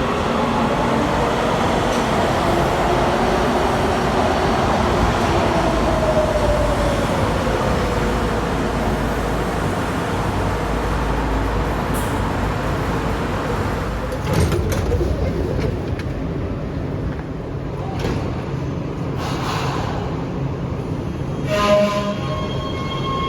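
Heavy-rail subway train running through a tunnel, heard from inside the car: a steady rumble and rail noise, with a motor whine falling slowly in pitch over the first several seconds. A few sharp clicks come later, and a steady high tone sets in near the end.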